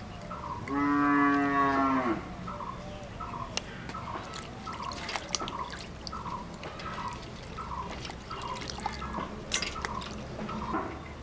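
A cow lowing once, a single held moo lasting about a second and a half, starting just under a second in. Behind it, a short chirp repeats about twice a second throughout, with scattered light clicks.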